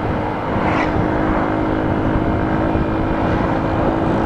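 Motorcycle engine running at a steady pitch while riding, under a dense, even rush of wind and road noise.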